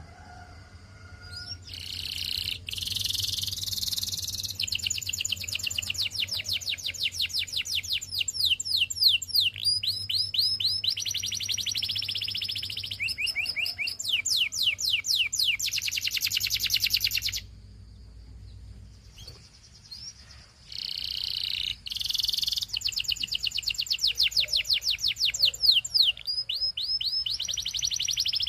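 Canary singing long phrases of fast trills, each a rapid run of repeated high notes, many of them sweeping down. The song breaks off for about three seconds just past the middle, then resumes.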